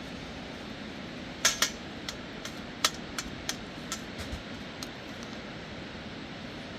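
Irregular sharp clicks and knocks over a steady background hiss: a quick pair about a second and a half in, then about a dozen lighter ones over the next few seconds.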